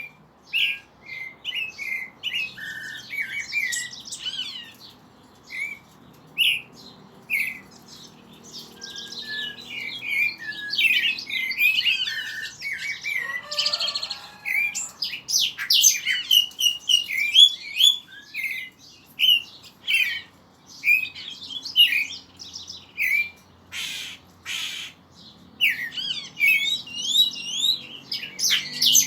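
Pet songbirds singing and chirping: many short, quick, overlapping whistled notes and trills. A short run of sharp clicks comes about three quarters of the way through.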